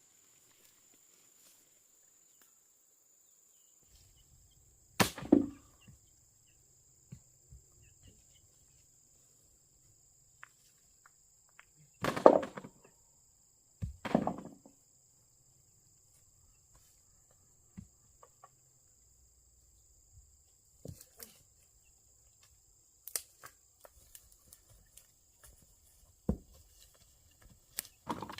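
Irregular thuds and knocks, a few seconds apart, the loudest three in the first half, over a steady high-pitched insect drone.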